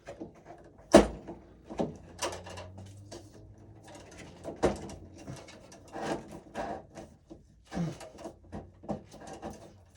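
Irregular clicks, knocks and scrapes of hand work inside a breaker panel, as a second AFCI breaker and its wiring are fitted. There is a sharp knock about a second in and another near the middle.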